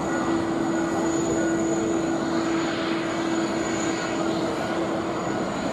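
Korean Air Boeing 777-200's jet engines running steadily as it taxis, an even rushing drone with a constant whining tone on top.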